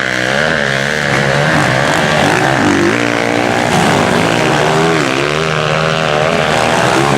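Motocross bike engines revving hard during a race, their pitch rising and falling over and over with throttle and gear changes.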